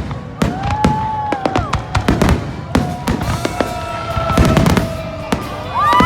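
Fireworks bursting in a rapid, irregular series of bangs and crackles, with a few heavier clusters of bursts. Music with long held notes plays underneath.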